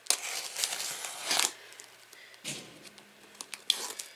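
A cardboard shipping box being opened by hand: packing tape tearing and cardboard scraping and rustling in a few short noisy bursts, with some sharp clicks near the end.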